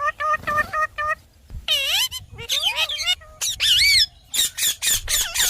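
Pet parrot chattering: a quick run of short squeaky notes, then swooping whistled calls and rapid chirps that rise and fall in pitch.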